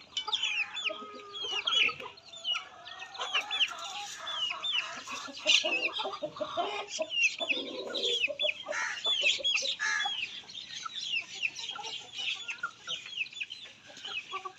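Chicks peeping: a dense, continuous run of short, high, falling cheeps, several a second.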